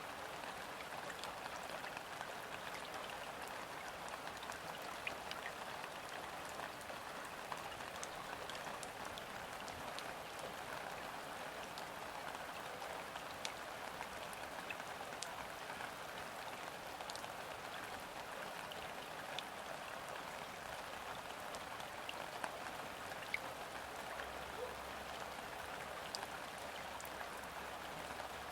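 Steady gentle rain falling onto a river's surface: an even hiss with scattered single drops ticking through it, and no wind. A faint low rumble comes in near the end.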